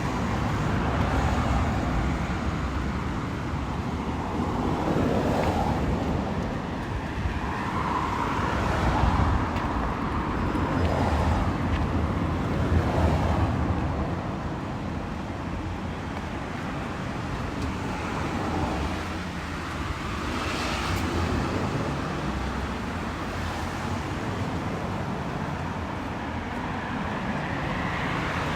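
Wet-street ambience in the rain: cars passing on a wet road, rising and fading in slow swells over a steady low rumble and hiss.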